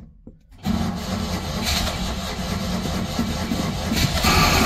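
Citroën 2CV's 602 cc air-cooled flat-twin engine on a cold start after eight months standing: it fires up again about half a second in, runs for about four seconds, then fades out near the end.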